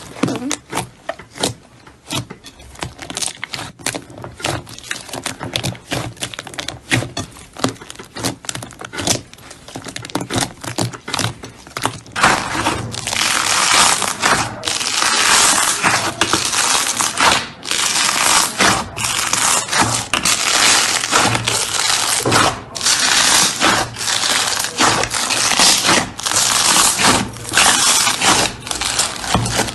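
Slime being worked by hand: many sharp sticky clicks and pops for the first twelve seconds or so, then a loud continuous crackling crunch in repeated presses, each broken off by a short gap.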